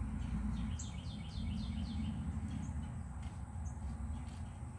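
A bird singing a quick run of short, downward-slurred chirps about a second in, then a few single chirps, over a steady low hum.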